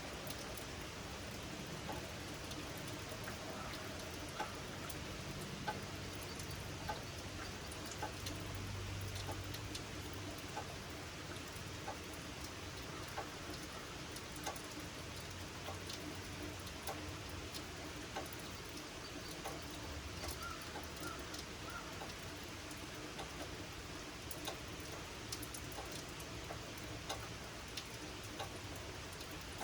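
Steady summer rain falling, with many irregular close raindrops tapping sharply on surfaces.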